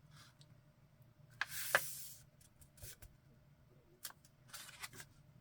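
A sheet of paper being handled and folded: a crisp rustle with a sharp crackle about a second and a half in, then shorter rustles and clicks near the end.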